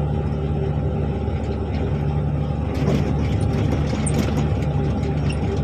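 Articulated dump truck's diesel engine running steadily, with a few light rattles about three to four seconds in.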